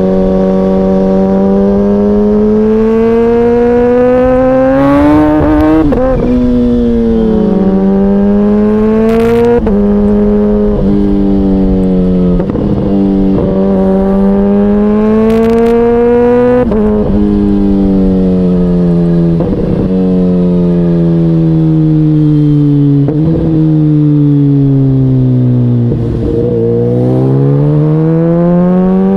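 KTM Duke 125 single-cylinder motorcycle engine being ridden, its note climbing under throttle and dropping back again and again, broken by short gaps at the gear changes. A few brief sharp clicks are heard along the way.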